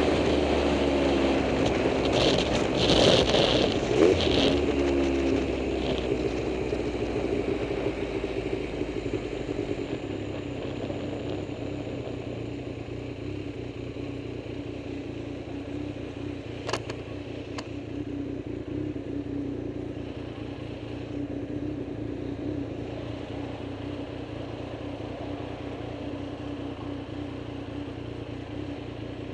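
A vehicle engine running steadily, growing quieter over the first ten seconds or so, with a brief clatter about three seconds in and two sharp clicks later on.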